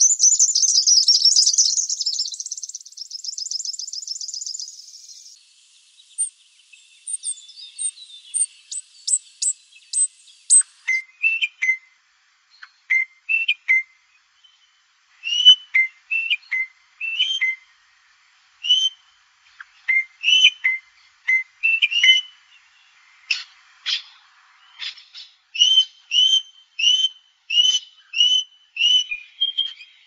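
Birdsong: a loud, fast trill for about the first five seconds, then a run of short, very high chirps, then short whistled calls repeated every second or so from about ten seconds in, coming faster near the end.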